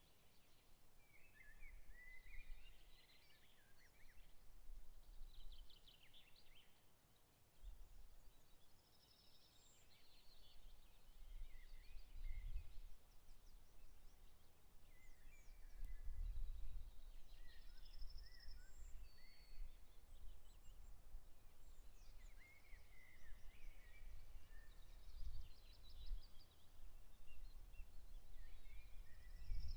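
Songbirds singing in short, repeated phrases of chirps and trills throughout, over a low rumble that rises and falls.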